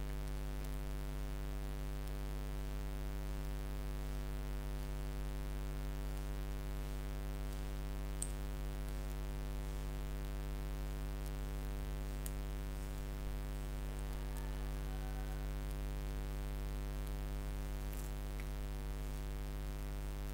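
Steady electrical mains hum with a stack of harmonics picked up by the recording, with a few faint clicks about 8, 12 and 18 seconds in.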